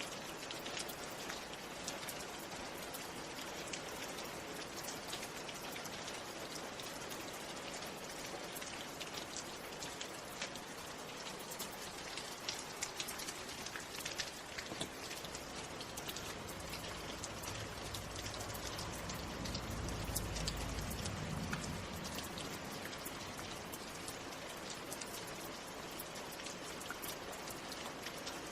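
Steady rain, with many individual drops ticking on a surface. A low rumble swells and fades about two-thirds of the way through.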